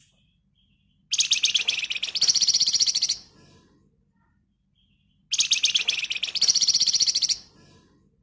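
Flamboyan songbird singing two identical rapid, dense rattling trills, each about two seconds long and rising in pitch partway through: the bird's 'ngebren' song. Faint short notes come between the trills.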